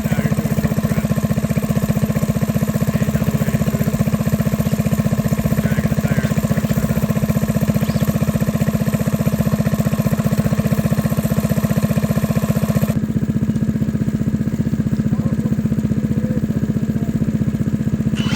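Car engine idling steadily with an even pulse. The high hiss drops away about two-thirds of the way through.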